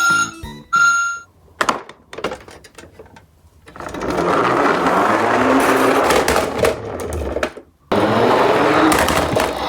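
Toy garbage truck rolling fast down a steep slope: a rumbling whir whose pitch rises as it gathers speed. It cuts off abruptly about eight seconds in, and a second run starts straight away. Before that, the tail of a short jingle and a few light knocks.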